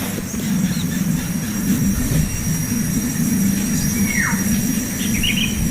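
A few short bird chirps and one falling call, about four seconds in, over a loud steady low rumble and a continuous thin high whine.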